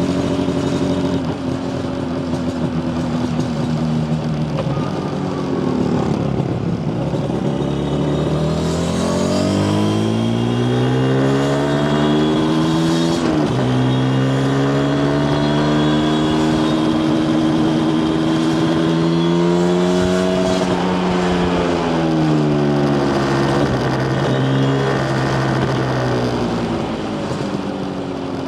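Yamaha TZR250 1KT's two-stroke parallel-twin engine under way: the engine note drops at first, then climbs steadily as the bike accelerates, with a short break near the middle like a gear change. It holds and rises a little more, then falls away again in the last third as the throttle is eased.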